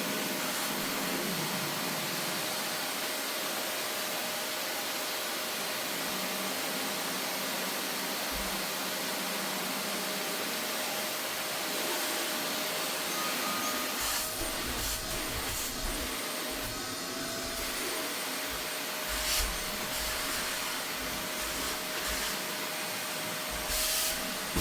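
Vacuum cleaner running steadily over a sofa's upholstery, a noisy rush with a constant motor whine. In the second half come irregular low thuds and a few brief scrapes as the nozzle is worked.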